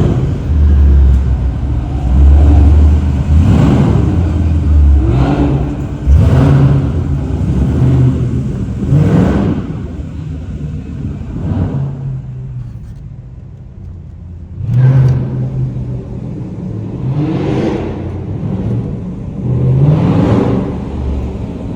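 Car engine revved again and again: about seven quick rising revs over a deep rumble, with a quieter lull about halfway through.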